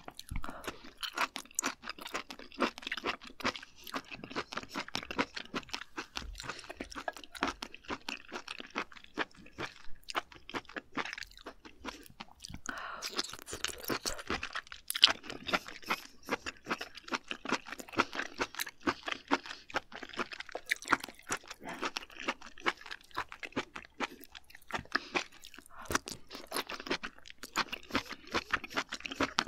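Close-miked chewing of raw shellfish sashimi: a dense, continuous run of sharp wet chewing clicks and mouth smacks, loudest about halfway through.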